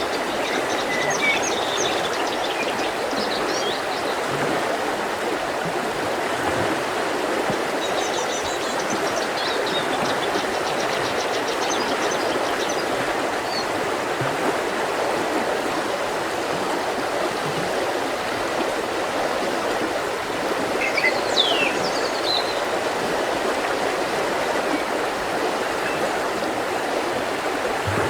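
Mountain river rushing steadily over rocks. Small birds chirp and trill a few times, near the start and about a third of the way in, and give a quick falling call about three quarters of the way through.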